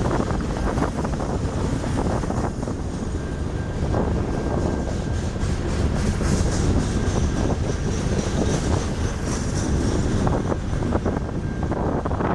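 BNSF manifest freight train rolling past, a steady heavy rumble with a continual clatter of wheels on the rails and a faint steady high whine.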